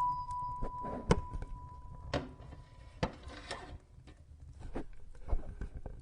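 Wood fire crackling in a fireplace: irregular sharp pops and snaps over a low steady rumble. A faint steady high tone fades away in the first couple of seconds.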